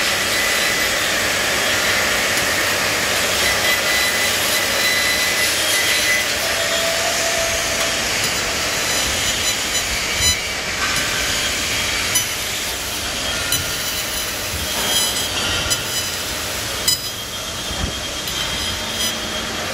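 Fiber laser cutting machine for structural steel at work: a steady, loud rushing noise with faint high whining tones and scattered short clicks.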